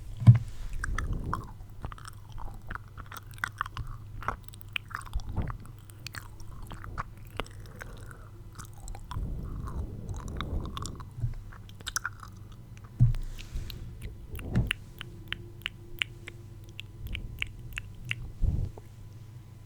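ASMR mouth sounds close to the microphone: wet clicks and smacks of the lips and tongue, irregular at first, then a quick run of sharp clicks in the second half, with a few louder low thumps.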